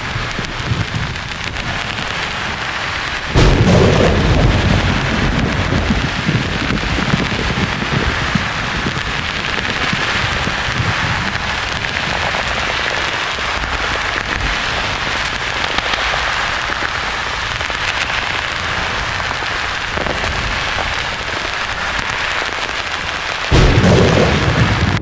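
Steady rain-like hiss of white noise with rolls of thunder: a sudden deep rumble breaks in about three seconds in and fades over several seconds, and another begins near the end.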